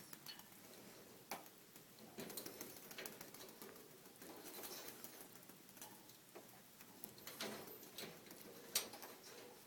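Faint, scattered taps, scuffs and rustles of a cat playing with a cat teaser wand, with a sharper knock near the end.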